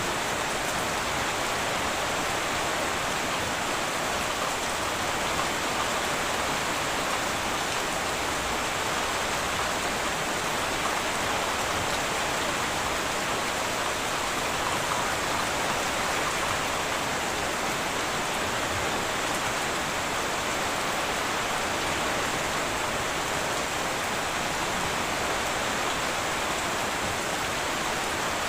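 Heavy rain falling steadily on a tin roof, a dense even hiss with no thunder.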